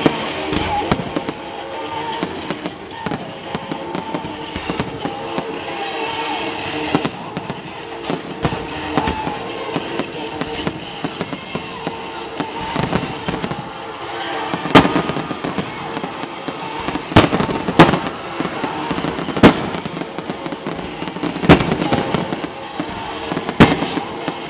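Fireworks bursting in a run of sharp bangs, coming harder and louder in the second half, over music and voices.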